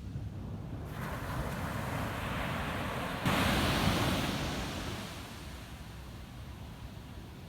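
Ocean waves breaking on a beach. The surf rush swells from about a second in, a wave crashes suddenly and loudest a little after three seconds, then it washes out and fades, over a low rumble throughout.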